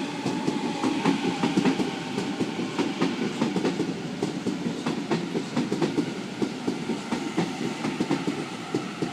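Waratah electric passenger train arriving at a platform, its wheels clattering over the rail joints in a dense run of knocks over a steady rumble.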